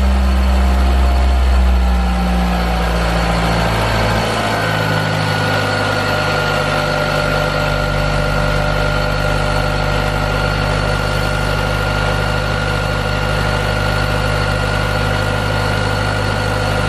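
Mitsubishi 4G64 2.4-litre four-cylinder engine idling, on its first run after a new fuel pressure regulator went in. The note shifts about four seconds in, then holds steady.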